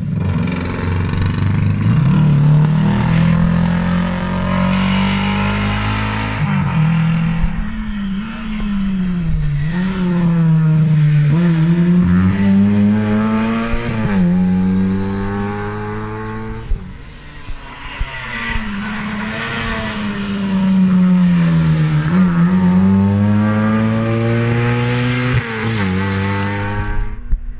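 Rally car engine driven hard on a stage, its note climbing again and again and dropping sharply at gearchanges and lifts for corners, several times over.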